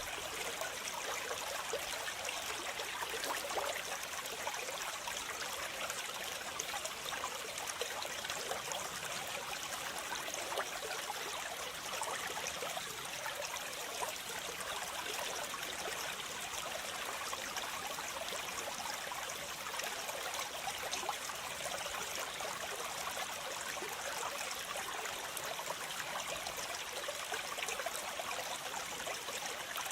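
Waterfall: water splashing and running, a steady rushing with a fine spatter on top and no breaks.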